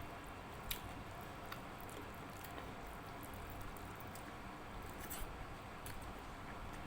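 A person eating rice and dal by hand: faint chewing with a few sharp, wet clicks and mouth smacks over a steady hiss.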